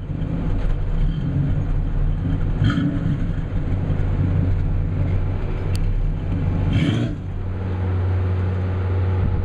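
Small-block 350 Chevy V8 with Flowmaster mufflers in a 1937 Ford street rod, running as the car drives away: a steady low exhaust rumble, with two brief hissy bursts about three and seven seconds in.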